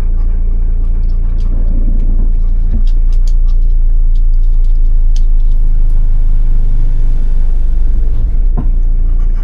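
A motorhome's engine runs with a steady low rumble, heard from inside the cab while the vehicle is slowly manoeuvred into a parking bay.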